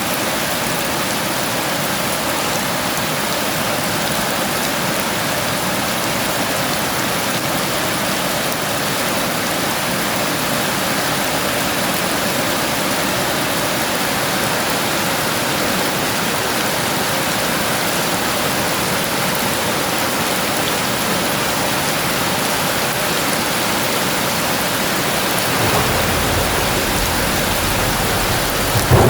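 Heavy rain pouring steadily. Near the end a deep rumble of thunder comes in, swelling into a louder crack just before the end.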